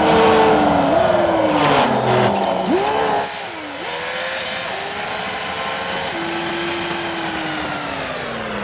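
Semi truck's diesel engine pulling a loaded trailer. Its pitch slides down and steps back up several times, and it is louder in the first three seconds.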